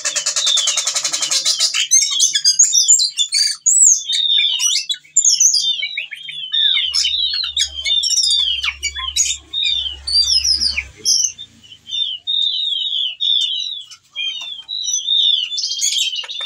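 Ciung batu (whistling thrush) singing hard in breeding condition, calling for a female and pouring out a varied run of rapid chirps, slurred whistles and squawky notes. A harsh buzzing rattle fills the first two seconds and returns near the end.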